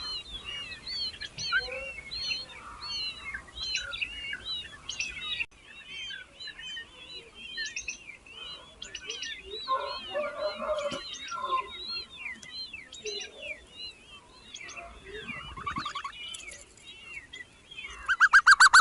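Baby birds chirping nonstop, many short rising-and-falling cheeps overlapping: the begging calls of hungry nestlings. Near the end a much louder, rapid pulsing call starts, about five pulses a second.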